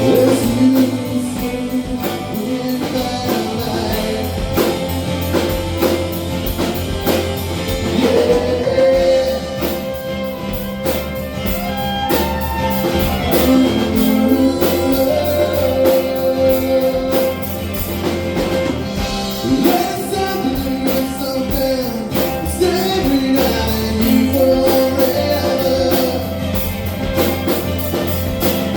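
A band playing live: sung vocals over drums and guitar, with a steady beat.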